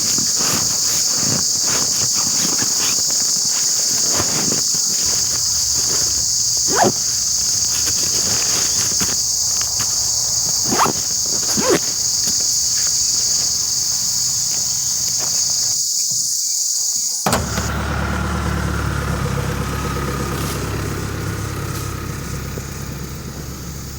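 A loud, steady high chorus of insects, with a few short chirps about 7 and 11 seconds in. About three-quarters of the way through it cuts off suddenly and is replaced by the steady low hum of a vehicle running.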